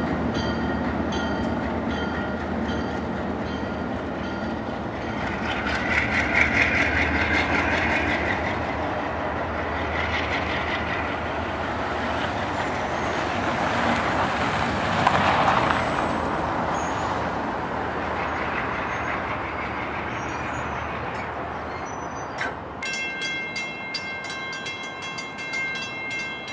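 A train rolling along the track close by, with a steady rumble of wheels on rail. High metallic squeals come and go, and a stack of high squealing tones sets in during the last few seconds.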